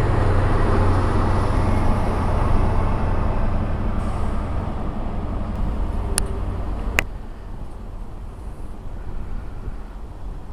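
A train running through the station with a steady low hum and wheel noise, which fades away after about seven seconds. Two sharp clicks come just before it fades.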